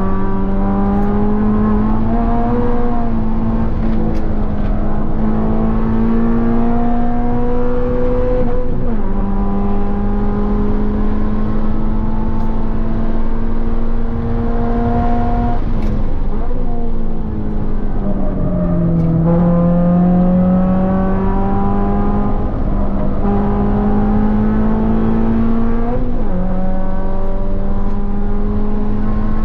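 2023 Subaru BRZ's flat-four engine with an aftermarket header, heard from inside the cabin, pulling hard at full throttle near redline on track. The pitch climbs steadily and drops sharply at each upshift, three times.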